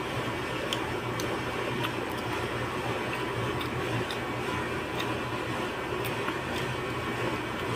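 A steady low mechanical hum, with faint scattered clicks.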